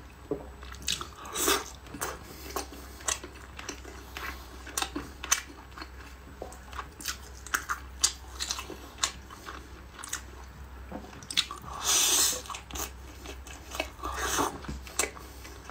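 Close-miked chewing and biting of glazed teriyaki chicken and rice: a steady run of short clicks, with a louder, longer burst about twelve seconds in.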